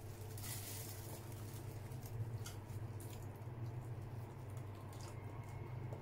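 Close-up eating sounds of a soft cream bun being bitten and chewed: small scattered wet clicks and squishes from the mouth, over a steady low hum.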